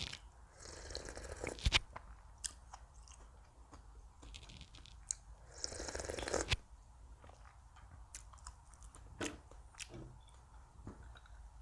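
A person chewing crisp food close to the microphone, with two louder crunching stretches of about a second each, one about a second in and one near the middle, and scattered small mouth clicks in between.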